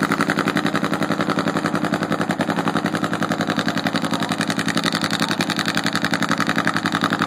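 Nitro-fuelled Harley-Davidson V-twin engine idling with a steady, rapid, even exhaust beat.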